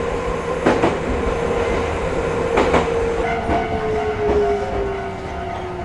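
Chichibu Railway 5000 series resistance-controlled electric train running, heard from onboard: a steady traction motor whine that slowly drops in pitch as the train slows, over a low rumble, with a few sharp wheel knocks over rail joints.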